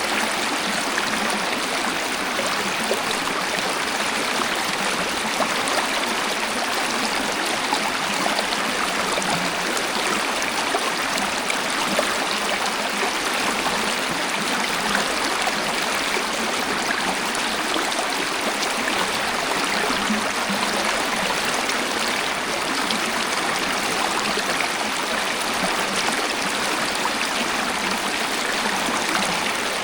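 Waterfall: water pouring and splashing in a steady, unbroken rush, with little deep rumble.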